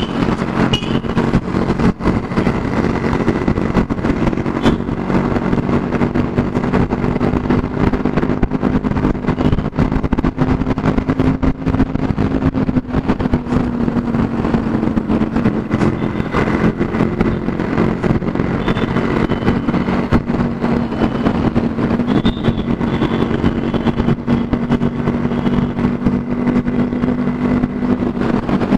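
Yamaha RX 100's two-stroke single-cylinder engine running steadily at cruising speed, its note dipping slightly about halfway through, over steady wind and road noise heard from the rider's helmet.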